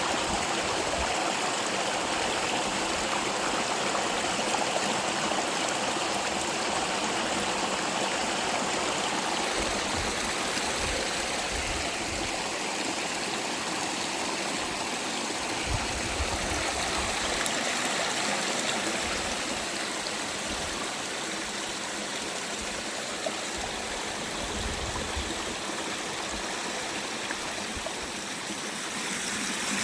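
Spring-fed mountain stream flowing and splashing steadily over rocks.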